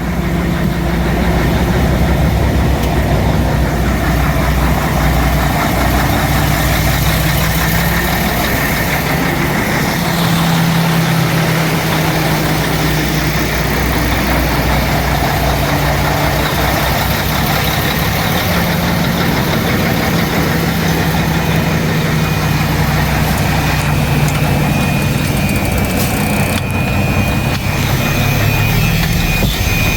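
Heavy diesel dump truck engine running steadily at a low, even speed.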